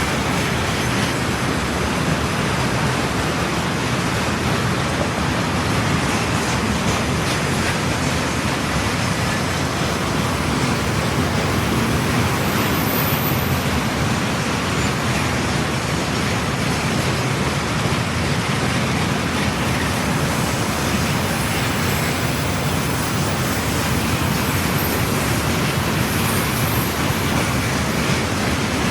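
Freight train wagons rolling past at speed: a loud, steady rumble of wheels on rail with no breaks.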